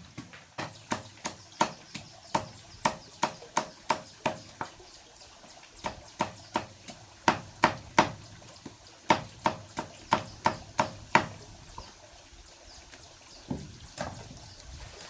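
Repeated sharp strikes of a hand tool on wood, about two to three a second, with a short break partway through. They stop a few seconds before the end, then one or two more come near the end.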